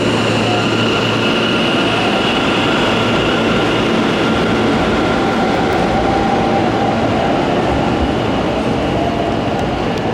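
Hanshin electric train pulling out of the station, its wheels and running gear making a steady rumble. A faint motor whine rises slowly in pitch midway as it picks up speed.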